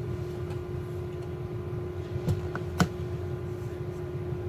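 Two sharp computer mouse clicks about half a second apart, a little past two seconds in, the second louder, over a steady background hum with one even tone in it.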